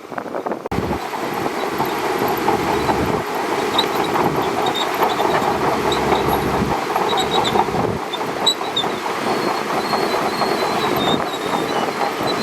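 Shantui DH17C2 crawler bulldozer running and travelling, its steel tracks clattering with short high squeaks. The sound begins abruptly just under a second in.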